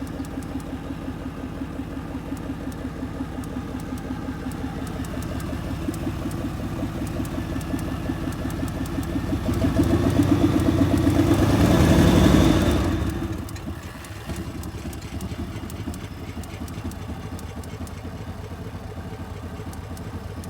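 Truck engine idling steadily on its own, with no throttle held open. About halfway through it grows louder for a few seconds, then settles back to an even idle.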